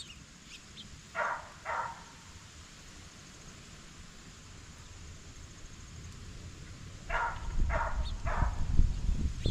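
Blue jay giving short, harsh calls: two about a second in, then three more near the end. From about seven seconds, low rumbling and knocking close to the microphone grows louder.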